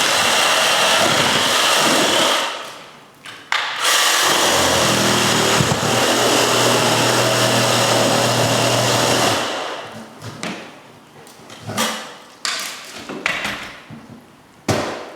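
Power tool cutting into a wall, running in two long stretches with a short pause between them, the second about five seconds long. Scattered knocks and clatter follow near the end.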